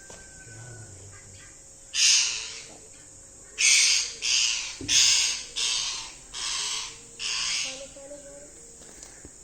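Young ringneck parakeets giving harsh squawks: one about two seconds in, then a run of six in quick succession.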